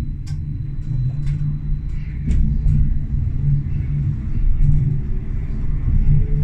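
A tram running along its track: a steady low rumble from the wheels and running gear, with sharp clicks and knocks in the first few seconds and a faint rising whine near the end.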